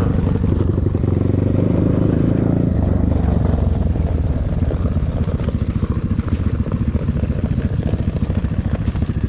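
KEWS K16 PRO enduro motorcycle engine running steadily, then dropping in pitch about three seconds in and settling to a lower, rapid, even chugging, as at low revs.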